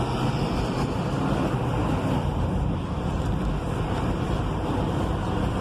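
Steady engine and road noise heard from inside a diesel vehicle's cab while driving in city traffic.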